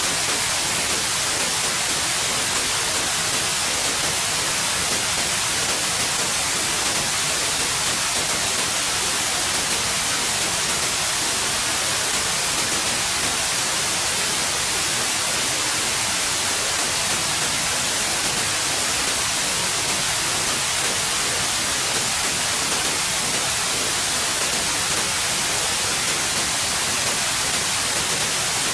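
Steady white noise: an even, unbroken hiss, brightest in the treble.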